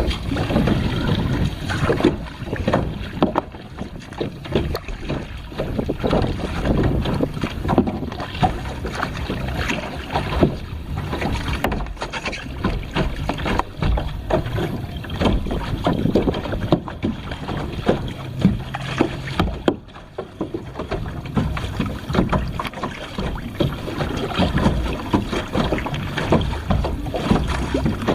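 Water splashing and sloshing around a kayak, with wind buffeting the microphone.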